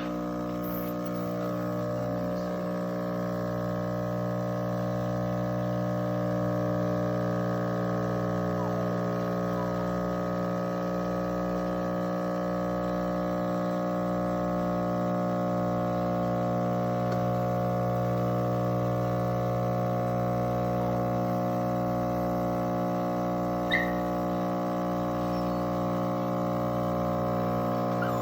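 Espresso machine's pump running with a steady electric buzz for almost half a minute, as water is pushed through the machine.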